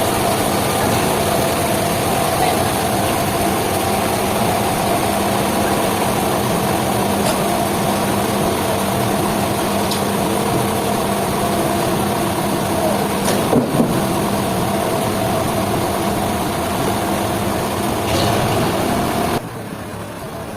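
An engine running steadily at a constant speed, with a few light ticks; the sound drops off abruptly near the end.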